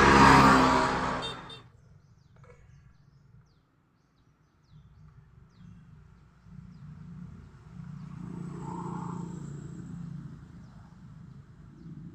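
Loud vehicle noise that cuts off suddenly after about a second and a half; after a near-silent pause, a low engine rumble rises and then eases off.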